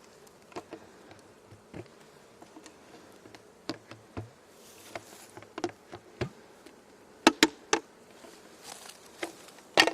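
Honeybees buzzing faintly around an open hive, with a low hum, under scattered sharp clicks and knocks from hive parts being handled, the loudest a quick cluster about seven seconds in and another near the end.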